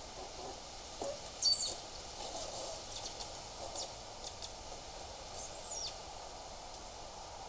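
High-pitched bird calls over a steady outdoor hiss: a loud sharp call about one and a half seconds in, then scattered thin chirps, and a call that falls in pitch near the end.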